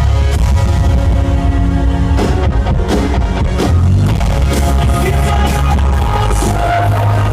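Live pop-rock band playing loud through a concert sound system, an instrumental stretch of the song with heavy bass, repeated drum hits and sustained synth and guitar tones.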